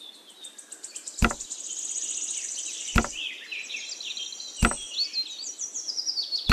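Four sharp knocks, spaced about a second and a half apart, as small brick walls are set down, over steady high-pitched bird chirping and a fast insect-like trill.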